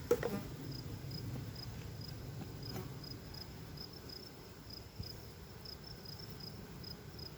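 Honeybee colony humming low and evenly in the opened hive, the calm hum of bees after smoking. A high chirp repeats about twice a second over it, and there are a couple of light knocks.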